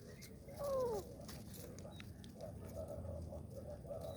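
A kitten meowing: one short call falling in pitch about half a second in. Fainter short calls follow in the background.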